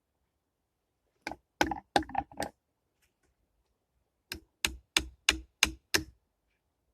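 A tool striking wood in two runs of sharp knocks: about five uneven blows starting a second in, then after a pause six evenly spaced blows, about three a second.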